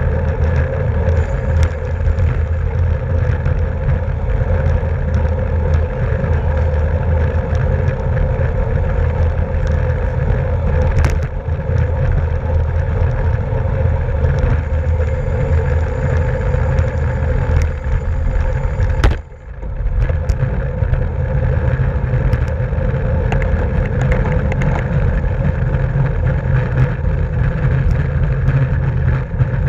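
Steady, loud wind and road noise from a racing bicycle at speed, the low rush of air over the microphone mixed with tyre and drivetrain hum. A few light clicks come through, and the noise dips briefly about two-thirds of the way through.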